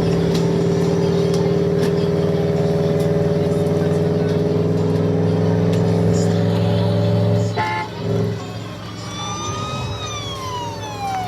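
Police car kiddie ride's sound effects through its speaker: a steady, loud low drone that cuts off about seven and a half seconds in, followed by a short burst and then a siren wail that sweeps down and starts back up near the end.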